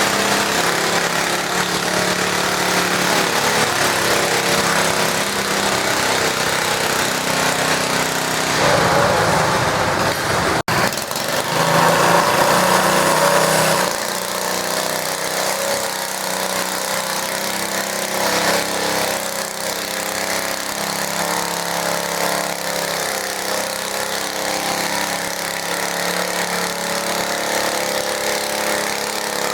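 Garden tractor engine running under load while pulling a weight sled. It cuts off abruptly for an instant about a third of the way in. It comes back louder for a few seconds, then settles slightly quieter.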